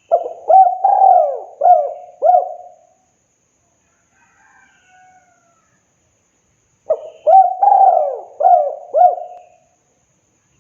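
Spotted dove (tekukur) cooing its song: two phrases of about five rhythmic coos each, the first at the start and the second about seven seconds in.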